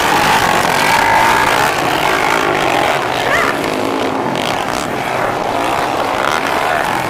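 Underbone motorcycles with four-valve engines racing on a flat track, engines running at high revs. The engine note is loudest in the first two seconds, then eases off a little.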